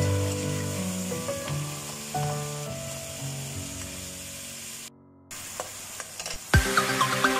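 Sliced mushrooms sizzling in hot oil in a nonstick wok while being stir-fried with a spatula, under soft background music. Just before the end of the sizzling the sound cuts out briefly, and near the end louder electronic music with a steady beat takes over.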